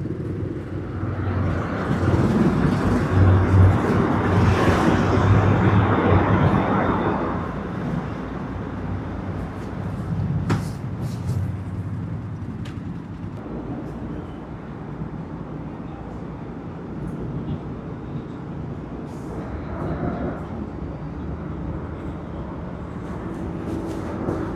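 Motorbike road noise in traffic: a steady engine and tyre rumble. A louder rush of traffic swells in the first couple of seconds and dies away about seven seconds in, leaving a quieter, steady rumble.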